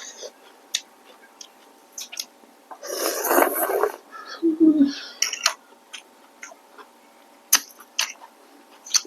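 Close-up eating sounds of rice noodles with shrimp: scattered wet mouth clicks and smacks from chewing, and a loud noisy slurp lasting about a second near the middle. A short low voiced hum follows the slurp.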